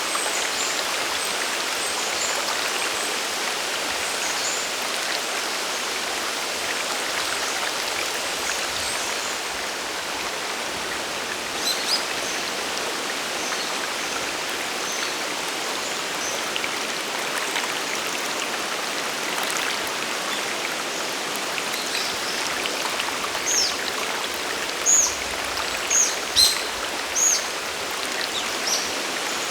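Mountain stream and waterfall water rushing steadily. Small birds chirp briefly once or twice, and then several times near the end.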